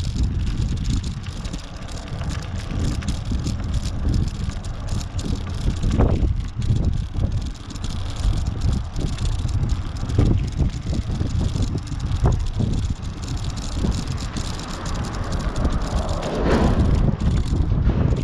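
Wind buffeting the microphone in a steady low rumble while riding a bicycle, with scattered clicks and rattles and a few louder gusts.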